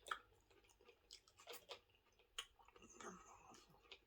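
Faint, irregular wet mouth clicks and smacks of a person chewing a mouthful of sub sandwich.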